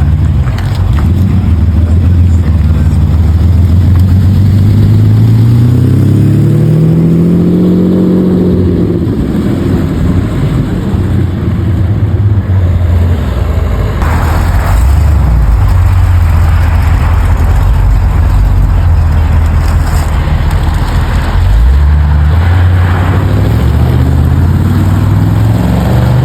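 Car engine running loudly with a deep, steady rumble, revved up and back down about six to nine seconds in and again more briefly near the end.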